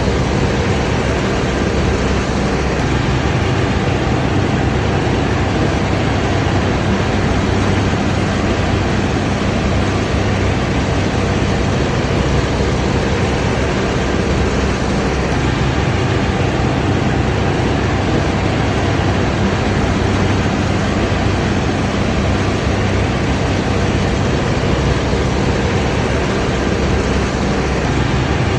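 Combine harvester running steadily: a constant low engine drone under an even mechanical rush.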